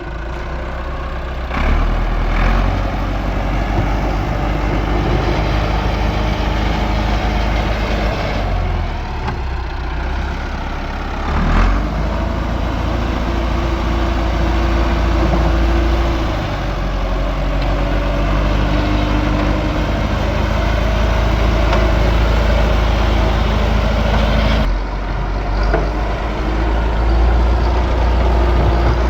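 An engine running steadily with a heavy low rumble, its pitch rising and shifting about a dozen seconds in.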